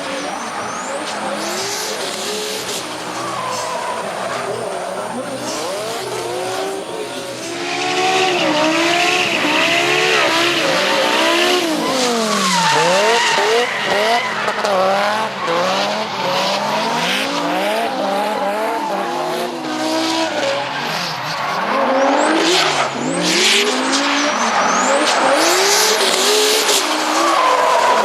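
BMW E46 M3 running a swapped-in BMW M5 V10 engine, revving up and down over and over while drifting, its pitch rising and falling every second or two. The tyres squeal and skid under it, and it gets louder about eight seconds in.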